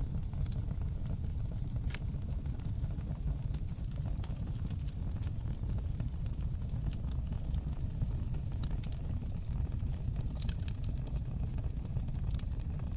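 Fire in a fireplace crackling: irregular sharp pops and snaps over a steady low rumble of the flames, with a quick cluster of pops about ten seconds in.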